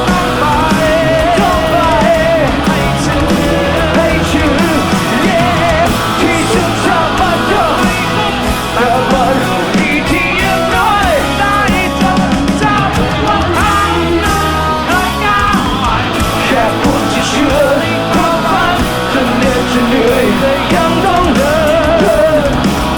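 Live rock band playing loudly and steadily, with a singing voice rising through the music at times.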